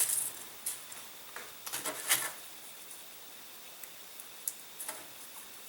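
Light clicks and rustling from small model-aircraft parts being handled on a workbench, with a cluster of louder rustles about two seconds in and a few scattered ticks after.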